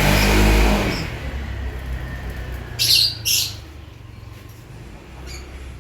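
A pet lovebird giving two short, shrill chirps in quick succession about three seconds in, after a low rumble in the first second.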